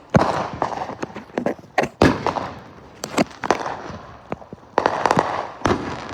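Consumer fireworks going off: a rapid, irregular string of sharp bangs with crackling between them, the loudest just after the start and about two seconds in.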